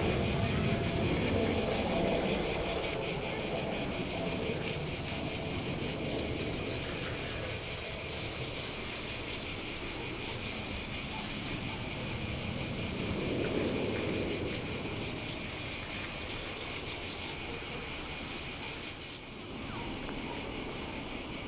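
Steady chorus of insects, a high, rapidly pulsing buzz that dips briefly near the end and then resumes. A faint low rumble swells and fades underneath.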